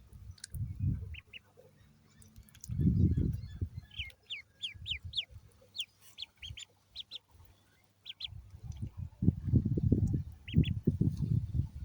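Ducklings peeping: short, high, falling notes in quick runs, the longest about four seconds in. Louder low, rumbling bursts come and go under them.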